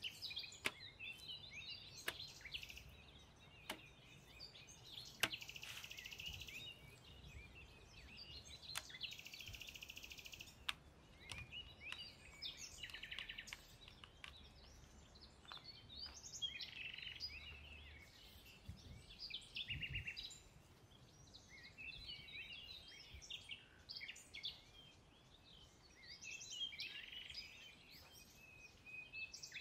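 Birds chirping and trilling throughout, with scattered sharp clicks and taps from raw pork being laid on a stainless steel tray.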